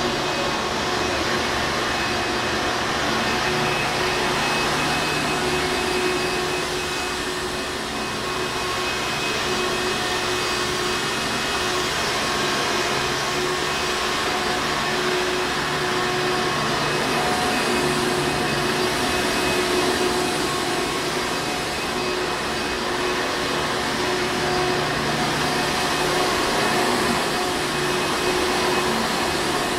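Hoover Encore Supreme upright vacuum cleaner running steadily: a constant motor whine and rush of air with a few faint steady tones.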